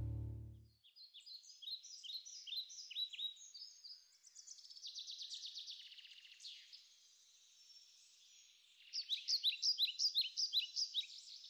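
Small birds chirping and trilling in quick series of high, falling notes, with a louder run of notes starting about nine seconds in.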